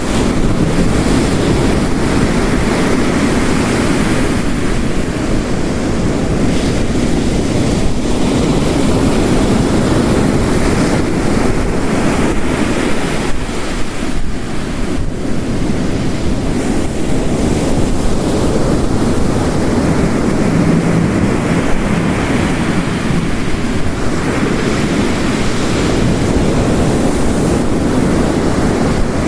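Ocean waves crashing on a rocky coast, mixed with heavy rain: a continuous deep rush that swells and eases over several seconds.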